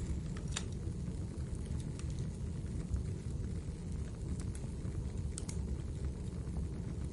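Wood fire burning in a fireplace: a steady low rumble with sharp crackles and pops coming at irregular intervals.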